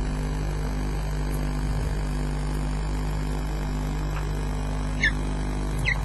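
Two short chirps, each falling quickly in pitch, from a bird near the end, with a fainter one just before. Underneath runs a steady electrical hum from the webcam's audio feed.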